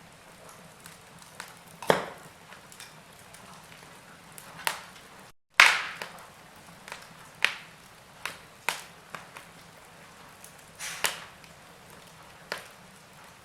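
Wood fire crackling in a fireplace: irregular sharp pops and cracks from the burning logs over a soft hiss, the loudest crack about halfway through, just after a split-second dropout.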